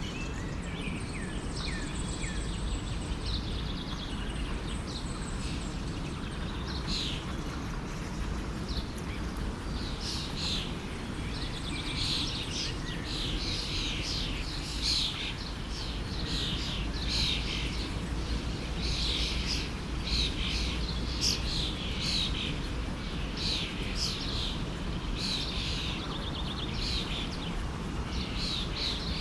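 Birds singing in quick, high chirps that grow thick after the first several seconds, over the steady low rush of a forest stream.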